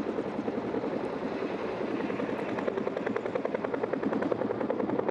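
Tandem-rotor CH-46 Sea Knight helicopters coming in to land, turbines and rotors running steadily with a rapid, regular blade chop that grows plainer about halfway through.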